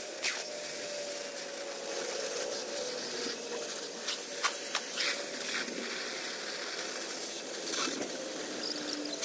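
Oxy-fuel cutting torch hissing steadily as it cuts through the steel of a 50 kg gas cylinder, with scattered sharp crackles and pops.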